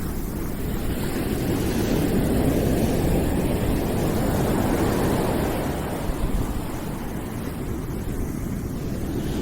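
Continuous deep noise, strongest in the low range and with no distinct events, swelling a little about two seconds in and easing again near the end. It is a steady background-noise track for calm and focus.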